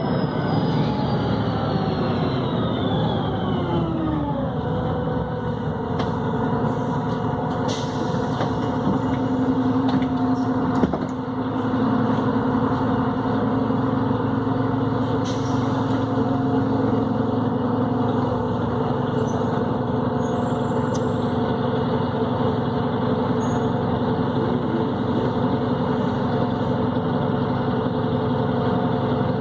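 Volvo B7RLE bus with a Voith automatic gearbox running, its drivetrain whine falling in pitch over the first few seconds before the engine settles into a steady drone. There is a single knock about eleven seconds in.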